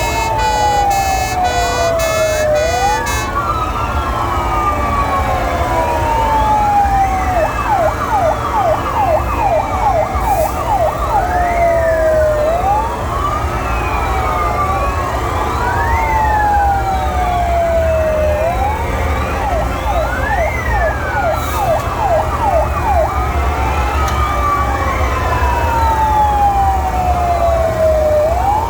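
Several fire truck sirens sounding together, overlapping. Slow wails fall in pitch over about three seconds and then sweep quickly back up, mixed with stretches of fast yelping sweeps. A steady low rumble runs underneath, and a pulsing horn-like tone sounds in the first few seconds.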